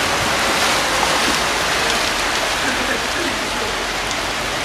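Heavy rain pouring onto a flooded street, a steady hiss of rain hitting standing water.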